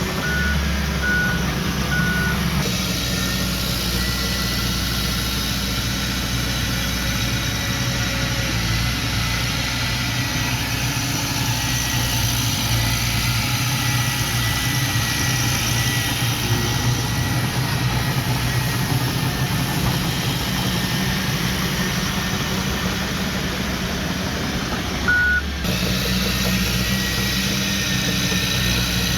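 Heavy diesel earthmoving machinery running steadily. A reversing alarm beeps three times about a second apart at the start and once more near the end.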